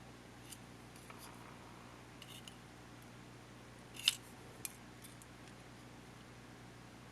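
A few small, sharp clicks and taps of small parts being handled during a camcorder teardown, the sharpest about four seconds in, over a faint steady hum.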